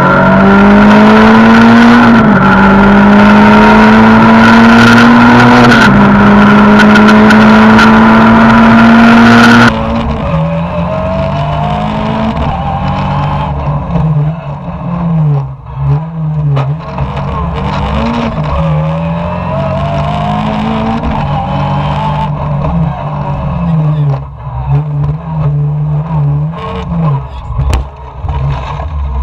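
Renault Clio 2 rally car's engine heard from inside the cockpit, very loud, accelerating hard with its revs climbing and two upshifts. After a cut about ten seconds in it is quieter, with the revs rising and falling over and over as the driver lifts, brakes and shifts down for bends and accelerates again.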